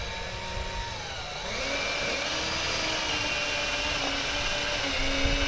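Electric power drill running continuously as it drives a fastener into the boat's wooden transom to mount a launch wheel; its motor whine drops in pitch over the first second and a half as it takes up the load, then holds steady.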